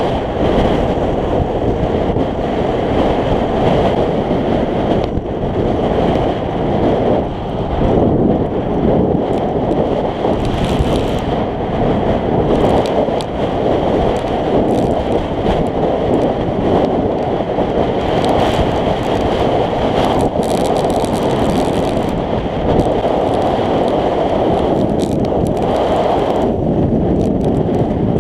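Steady wind rushing over the camera microphone on a moving scooter, with the scooter's engine running underneath as a faint steady whine.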